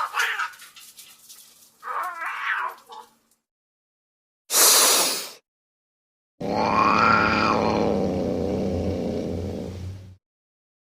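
A cat yowling in two short calls, then an edited-in comic sound effect: a brief burst and a long, loud effect. Stretches of dead silence separate the pieces.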